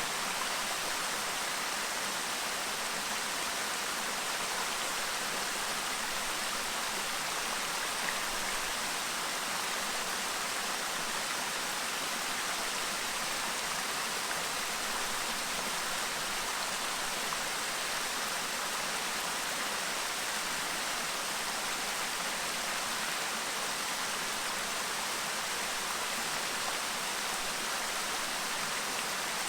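A clear river babbling: a steady, even rush of running water.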